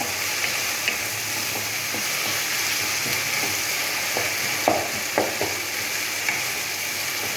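Onions and garlic sizzling as they fry in hot oil in a pan, with turmeric and salt added, stirred with a spatula that knocks against the pan a few times.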